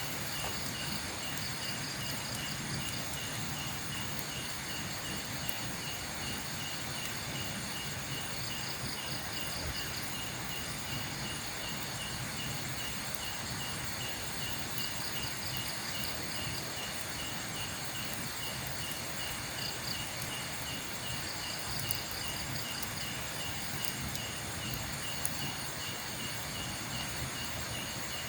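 Night insects calling in the forest. One keeps up a steady, fast pulsing trill, and a second, higher one joins in short spells every few seconds, over a steady hiss.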